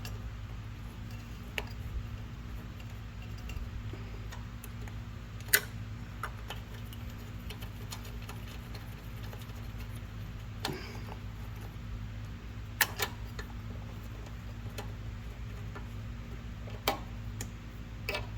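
Scattered light metallic clicks and taps of a bolt and small engine parts being handled and hand-tightened on a lawn mower carburetor, irregular and a few seconds apart, over a steady low hum.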